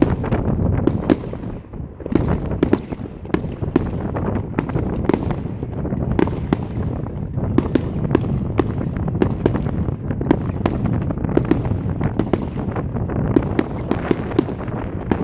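Fireworks display: aerial shells bursting in a rapid run of sharp bangs, about two a second, over a continuous low rumble of further bursts.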